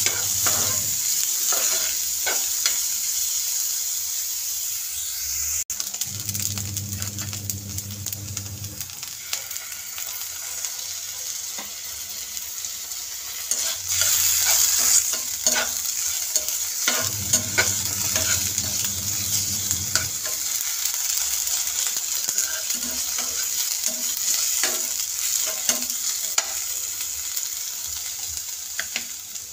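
Chopped onion sizzling in hot oil in a shallow metal pan, with a spatula scraping and clicking against the pan as it is stirred. The sizzle runs steadily while the clicks of the spatula come and go.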